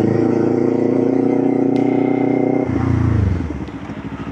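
Motorcycle engine running steadily under way, then the throttle comes off at about two and a half seconds in and the engine drops to a lower, quieter, pulsing run.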